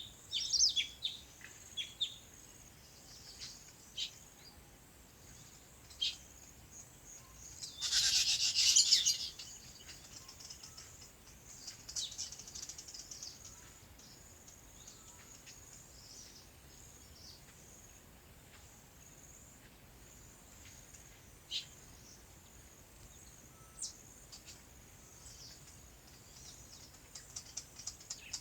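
Small songbirds chirping: scattered short, high chirps, with a loud burst of rapid chirping about eight seconds in, then only occasional chirps over a faint background.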